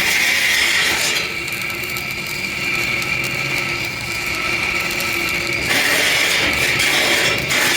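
A power tool running continuously on metal, with a steady high whine and a grating hiss that grows louder and quieter as it bears harder and lighter on the work, loudest at the start and again for a couple of seconds near the end.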